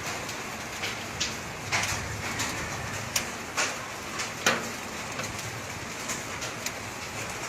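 Small volcanic stones and sand-laden rain falling on a roof: irregular sharp ticks and knocks, a few louder than the rest, over a steady patter.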